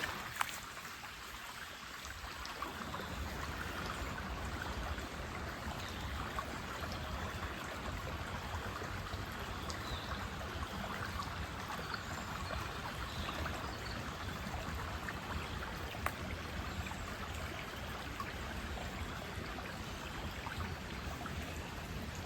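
Steady rushing of a woodland stream, water running over its bed.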